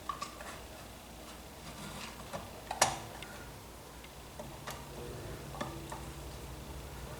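Scattered light clicks and taps of hand tools and small metal parts being handled while wiring is fastened, with one sharper click about three seconds in. A faint steady hum comes in during the second half.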